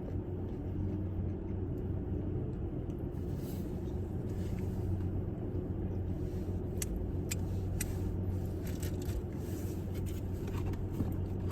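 A person chewing a mouthful of chicken nugget, with a few faint wet mouth clicks, over a steady low hum.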